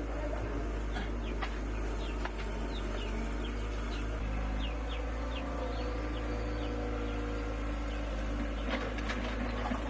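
An engine running steadily with a low drone, with a bird giving a series of short falling chirps between about two and a half and five and a half seconds in, and a few scattered clicks.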